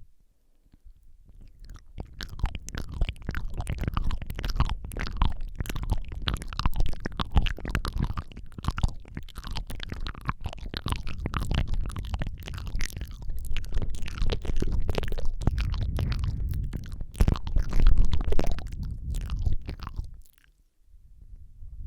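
Close-miked ASMR mouth sounds: a rapid, irregular stream of wet clicks, smacks and licking sounds on a Rode microphone, with a deep rumble from breath or handling close to the capsule. It stops briefly near the end.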